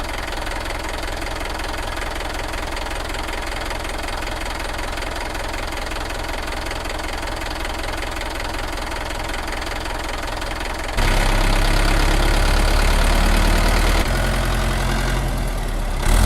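An engine running steadily with a knocking beat. About two-thirds of the way through it turns louder and deeper.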